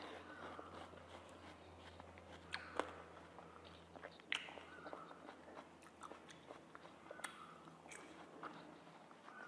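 A person biting and chewing chunks of raw watermelon: soft, wet mouth sounds with a few sharp clicks. A faint low hum lies underneath for most of it.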